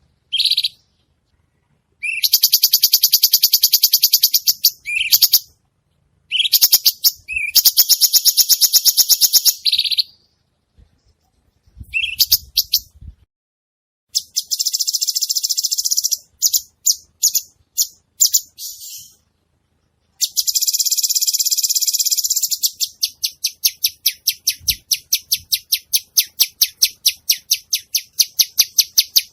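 Cucak cungkok bird singing vigorously: very high, rapidly pulsed phrases a few seconds long with short pauses between them, and near the end a long, even run of quick high notes.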